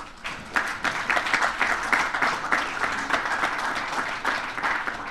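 Audience applauding: many hands clapping together, swelling about half a second in and tapering off near the end.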